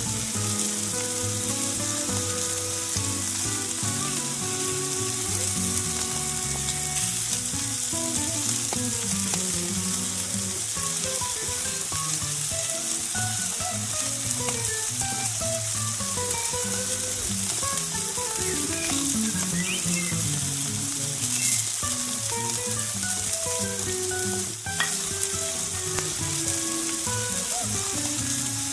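Chunks of chicken breast frying in hot oil in a cast-iron skillet, a steady sizzle, with the pieces stirred and turned now and then. A melody plays underneath.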